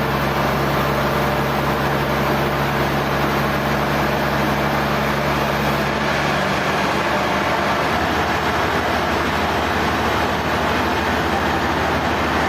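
Sawmill machinery running steadily with a dense mechanical noise and a low hum that changes pitch about six and again about eight seconds in.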